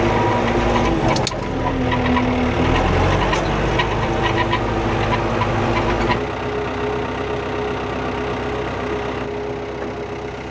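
New Holland TN85FA tractor's diesel engine running steadily. About six seconds in the deep low rumble drops away and a different steady tone carries on.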